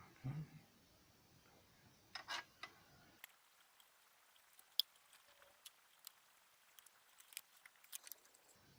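Faint, scattered light clicks and taps of small parts being handled, with a soft thump just after the start and a short cluster of taps about two seconds in.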